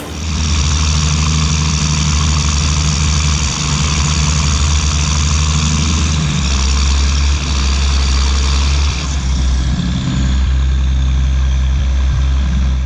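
Large farm tractor's diesel engine running steadily at working revs, with a strong low drone and a couple of brief dips in pitch. It cuts off suddenly near the end.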